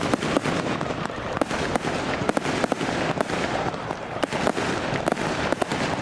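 Fireworks display going off: a dense, continuous crackle with many sharp bangs at irregular intervals, several a second.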